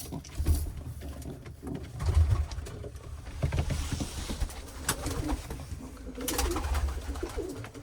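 Domestic pigeons cooing in their loft, low repeated coos, with a few brief scuffling sounds.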